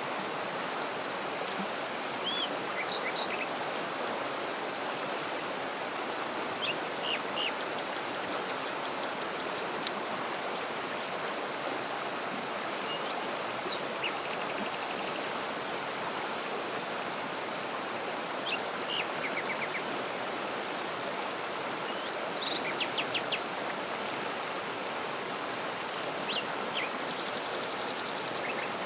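Steady rushing of a waterfall, with small birds chirping and giving short high trills now and then over it.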